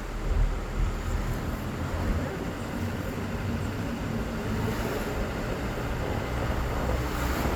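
A vehicle travelling along a road: steady engine and road noise with low rumbling, and wind buffeting the microphone.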